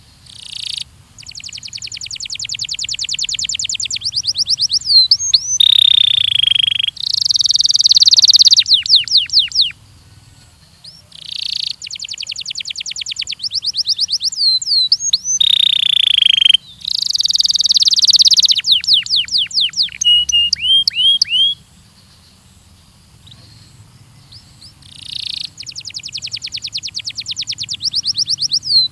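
Belgian canary singing: long, rapid trills of repeated notes mixed with upward- and downward-sweeping whistled notes, in loud phrases broken by two short pauses.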